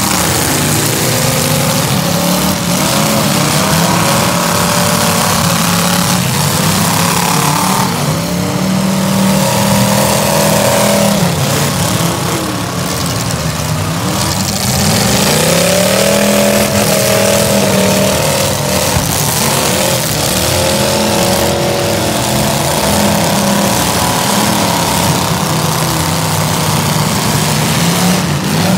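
V8 demolition derby car engines revving hard, several at once, their pitch rising and falling over and over as the cars push and spin their wheels.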